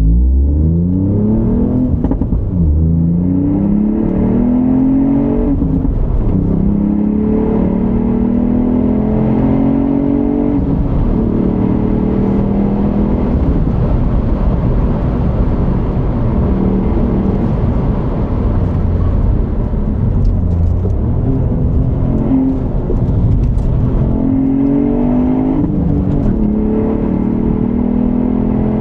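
2020 Ford Fiesta ST's turbocharged 1.5-litre three-cylinder EcoBoost engine through its stock exhaust, accelerating repeatedly with its pitch climbing through the revs and dropping at each gear change. It holds steadier through the middle, then pulls up through the revs again near the end.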